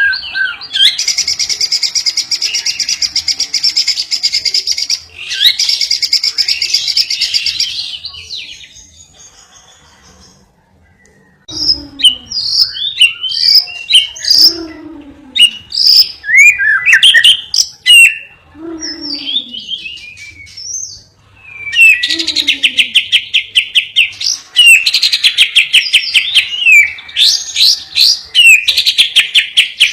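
Caged songbirds singing lovebird and canary song-fills. Long, rapid, high trills give way to a short lull about nine seconds in, then a string of separate sharp chirps, then long rapid trills again.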